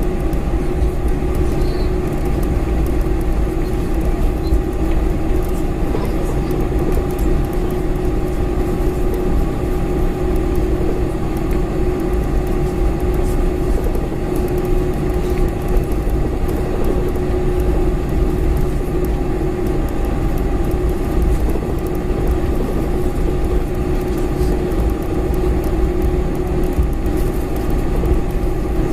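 Boeing 747-400 cabin noise: a steady, loud rumble of engines and airflow with a constant hum running through it.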